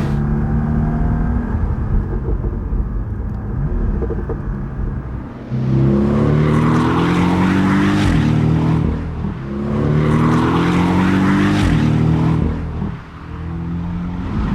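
Porsche 718 Boxster S's 2.5-litre turbocharged flat-four, at first running steadily at lower revs, then pulling hard under acceleration from about five seconds in. The revs rise through the gears, with two quick PDK upshifts heard as brief dips in the engine note.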